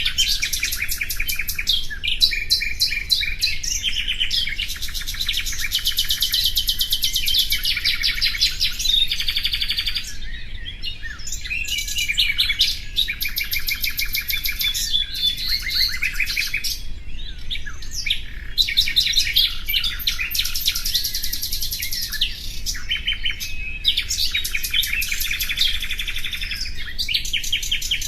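Common nightingale singing: fast trills and rapidly repeated notes, one phrase after another with short pauses between.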